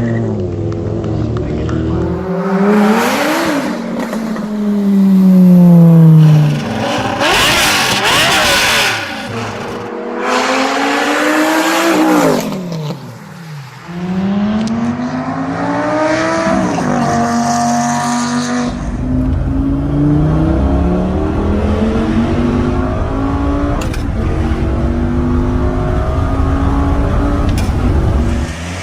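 V10 car engine revving and accelerating through the gears, its pitch climbing and falling again and again with each shift. Later it settles into a steadier, slowly rising note over a low rumble.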